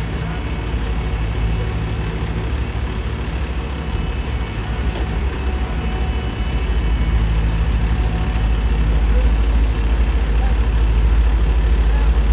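Heavy diesel paving equipment running with a steady low engine hum, growing louder about six seconds in.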